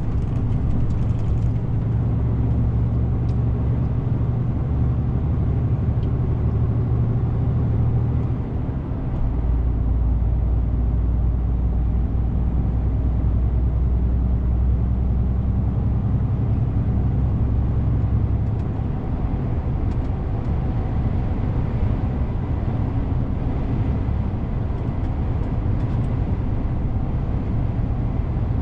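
DAF CF 450 truck's diesel engine running steadily under way. Its note shifts about a third of the way in, after a brief dip, and again about two thirds of the way through.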